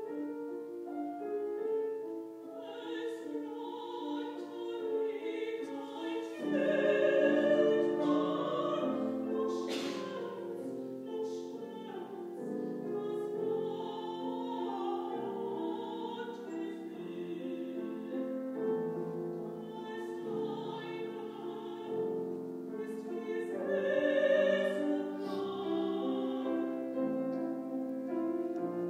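Woman singing a classical art song or aria in operatic style with vibrato, accompanied by piano, the singing growing louder about six seconds in.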